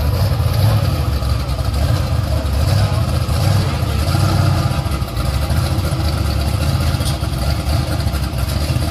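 V8 engine of a drag car idling with a steady, uneven low rumble, not revving.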